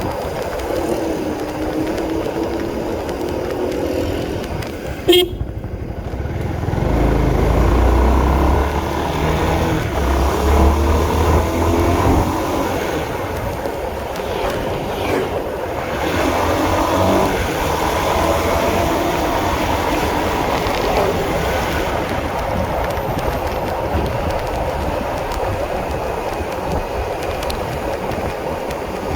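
Honda CB150R single-cylinder motorcycle engine running while riding, its note rising and falling, with a heavier low rumble for a few seconds and one sharp click about five seconds in.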